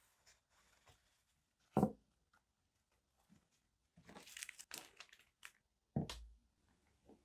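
Paper and stationery being handled on a desk: a sharp tap as something is set down about two seconds in, paper crinkling and rustling a little past the middle, and another thump near the end.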